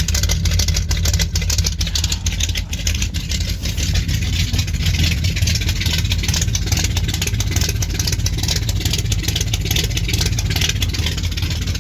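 A 1970 Ford F-250's freshly rebuilt 390 V8 idling steadily on its own after a cold start, with no throttle held. The engine has an aftermarket cam.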